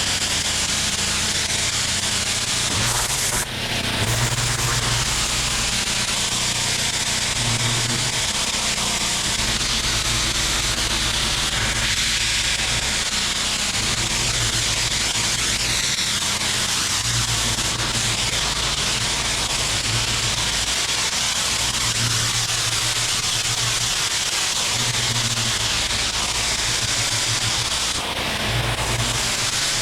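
Pressure washer running: a steady hiss of water spray over the low drone of its engine, with the low rumble coming and going.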